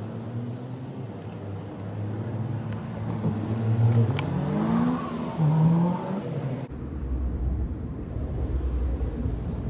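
A car engine running nearby, its pitch rising as it accelerates about four to five seconds in. The sound breaks off abruptly about two-thirds of the way through and gives way to a steady low rumble.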